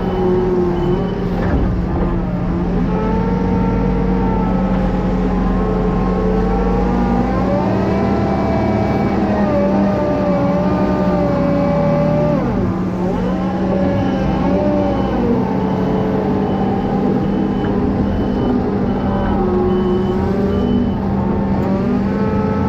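Heavy farm machinery engine running under load, its pitch rising and falling as it revs, with a reversing alarm beeping steadily near the start and again for several seconds past the middle.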